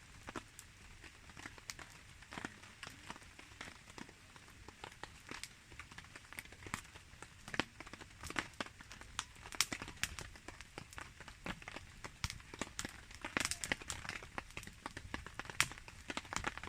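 Wood campfire crackling, with many irregular sharp pops that come thicker in the second half. Rain patters steadily underneath.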